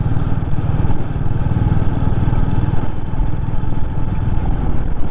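Royal Enfield Classic 350's single-cylinder engine running steadily, a dense low thumping throughout.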